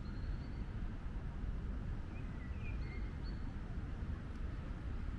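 Small songbirds giving a few short, high chirps over a steady low rumble.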